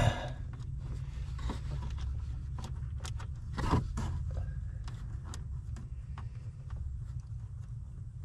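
Hands working a small gauge light bulb and its wiring into a socket behind a dash panel: scattered light clicks and scrapes, with a louder scrape about three and a half seconds in, over a steady low rumble.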